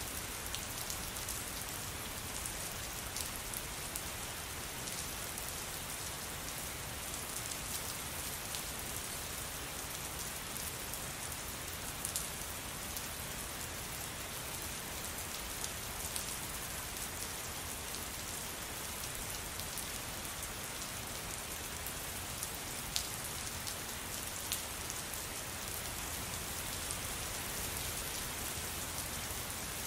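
Steady rain falling on a surface, a constant hiss with many distinct drop ticks and a few louder single drops.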